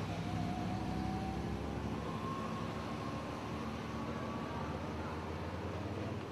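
Vehicle engine running over a steady low rumble, with a faint tone that rises slowly in pitch.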